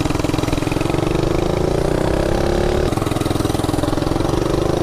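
Coleman minibike's small single-cylinder engine running under way. Its note climbs for about a second and then drops back about three seconds in.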